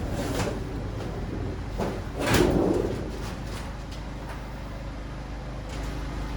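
Demolition work inside a stripped school bus: a loud scraping clatter about two seconds in, then a few lighter knocks, over a steady low hum.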